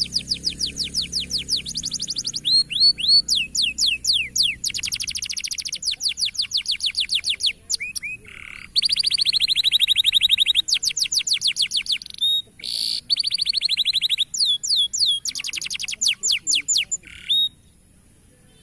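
Domestic canary singing a long song of fast trilled rolls, each a rapid run of repeated high notes, switching to a new roll every second or two. The song stops shortly before the end.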